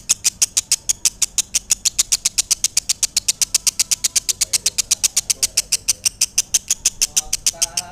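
Lovebird in a long ngekek: a fast, even run of shrill high chirps, about seven a second, kept up without a break and stopping near the end.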